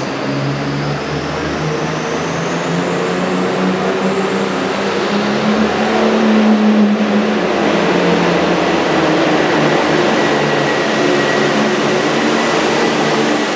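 Super farm pulling tractor's turbocharged diesel engine running hard under load, with a high turbo whine that rises in pitch over the first six seconds and then holds steady.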